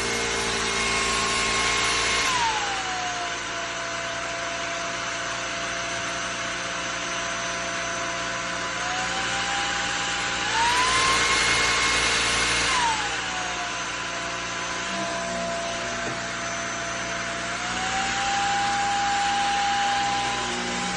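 Cordless stick vacuum running, its motor whine stepping between power levels. It drops about two seconds in, climbs back up around ten seconds, drops again a few seconds later, and rises partway near the end, louder at the higher settings.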